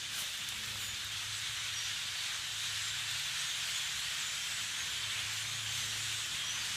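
A large flock of blackbirds calling all at once, their many calls blending into a steady, hiss-like chatter.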